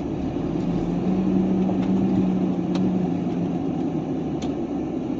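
Heavy truck's diesel engine running at low speed, heard from inside the cab as a steady drone, with a stronger engine note for a couple of seconds about a second in. A few sharp clicks or rattles come at uneven intervals.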